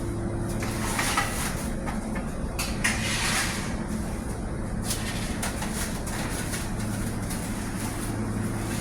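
Steady low hum of a ship's galley machinery, with brief clattering noises about a second in and again around three seconds in.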